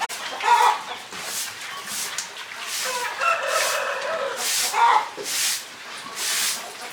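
A rooster crowing in the middle, among shorter calls and a run of short rustling strokes about every half second.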